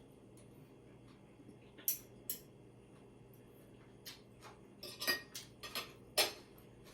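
Eating utensils clinking and scraping against plates and bowls during a meal: a few scattered sharp clicks, then a quicker run of them in the second half.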